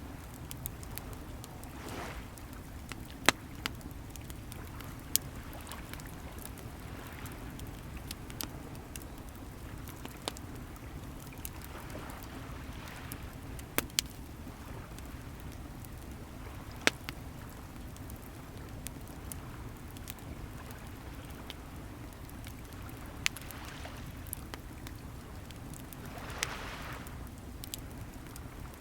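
Wood fire crackling, with a sharp pop every few seconds, over the steady low rumble of sea waves, a wave washing in now and then.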